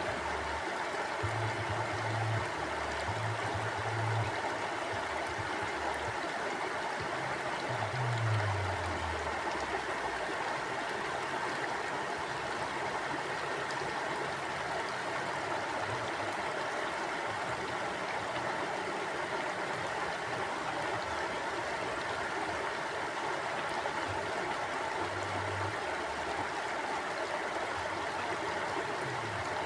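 Mountain river flowing steadily over rocks, an even rushing of water. A few brief deep rumbles rise and fall in the first ten seconds and again near the end.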